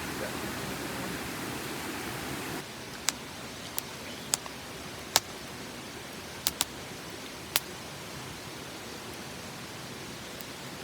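Steady rushing hiss that drops suddenly to a quieter one about two and a half seconds in, followed by a wood fire crackling with about eight sharp, scattered pops.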